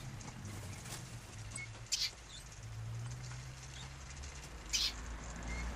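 Canaries making scattered short, high chirps, with two louder brief bursts about two and five seconds in, over a low steady hum.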